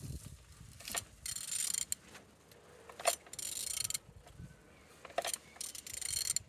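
Opel/Vauxhall Z18XER 1.8 four-cylinder petrol engine being turned over by hand, clicking and whirring in several short spells of turning; it turns freely, a sign that it is not seized.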